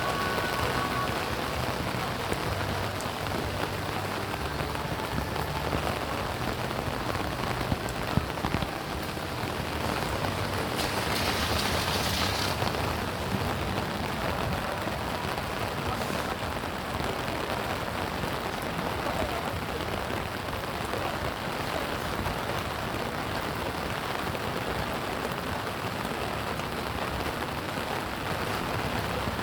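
Steady rain falling and pattering on surfaces, with a brief stronger hiss a little before halfway through.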